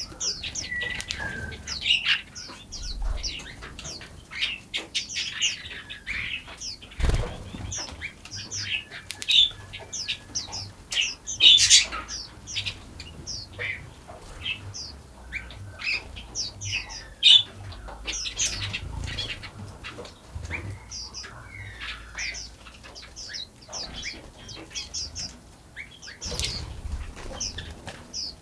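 Several small forest birds chirping and singing at once: many short, high chirps and trills overlap throughout, with a clear whistled note about a second in. A few low rumbles come and go, and there is a single sharp knock about seven seconds in.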